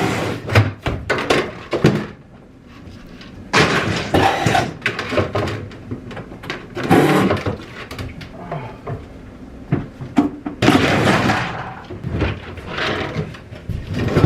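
Knocks, bangs and scraping of interior parts being pried loose and pulled out of a coach bus during demolition. There is a quick run of sharp knocks in the first two seconds, then longer scraping rushes.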